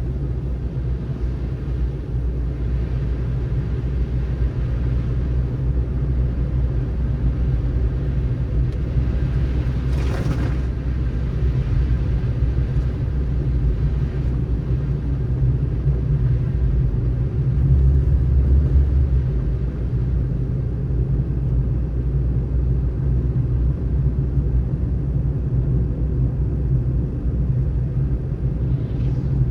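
Steady low rumble of a car driving on a snowy road, with a brief rush of noise about ten seconds in and a deeper swell a little past the middle.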